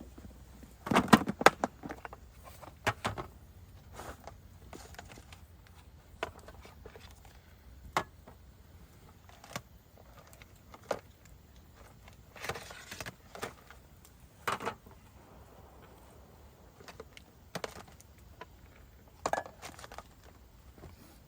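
Scattered clinks and knocks of objects being handled, with a burst of clatter about a second in and single knocks spaced through the rest.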